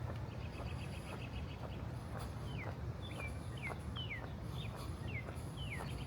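Wind buffeting the microphone as a steady low rumble, with footsteps on pavement. A bird gives a quick ticking trill, then from about two seconds in a series of about six short calls that slide down in pitch.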